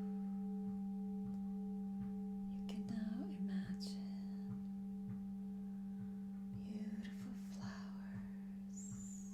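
A singing bowl ringing with one steady low hum and a few faint overtones, slowly fading. A few faint brief sounds come in about three and seven seconds in.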